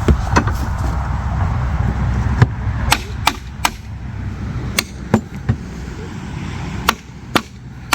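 Hammer blows on metal, about a dozen sharp, irregular strikes, as the gimbal housing is knocked loose from the boat's transom. A low steady rumble underneath drops away about seven seconds in.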